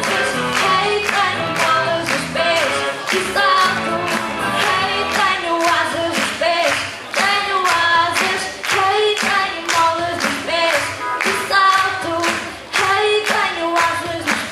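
Pop song with a girl's singing voice over a backing track, carried by a sharp steady beat about twice a second.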